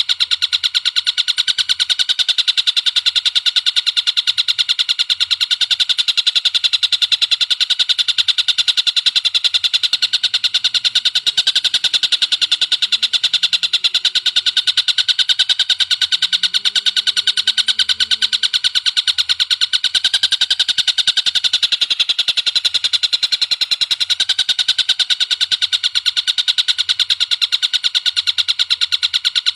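Recorded bird calls: a rapid, unbroken stream of high, sharp notes repeated many times a second, steady in level throughout.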